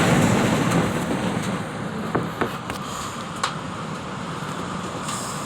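Storm wind gusting in a steady rushing roar that eases slightly after about a second, with a few sharp knocks and clicks of loose objects being blown about.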